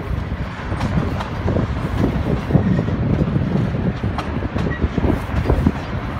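Double-stack container train's well cars rolling slowly past on the rails, a steady low rumble with frequent irregular clanks and knocks.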